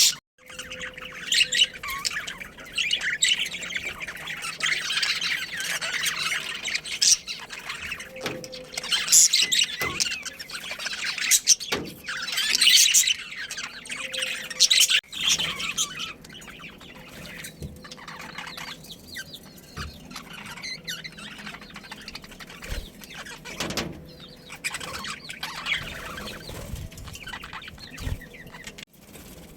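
Budgerigars chirping and chattering, the calls densest over the first half and thinning out after, with a few sharp clicks among them.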